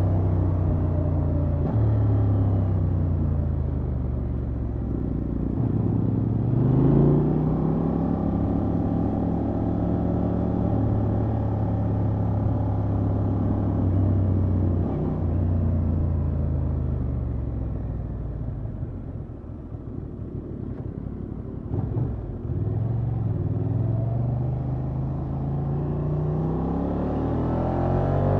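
Honda XL750 Transalp's 755 cc parallel-twin engine through its stock exhaust while riding. Revs rise steeply about six seconds in and then hold steady. Past the middle the engine eases off and goes quieter, then revs climb again near the end.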